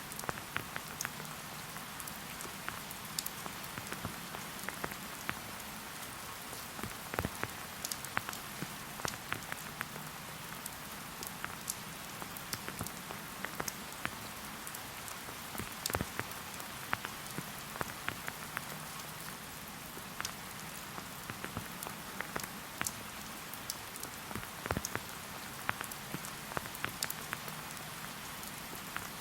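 Steady rain falling in a forest, an even hiss with many separate drops tapping close by.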